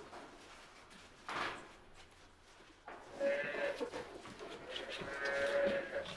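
A calf bawling: a long, high, wavering call starting about three seconds in and holding almost to the end. A brief rush of noise comes about a second and a half in.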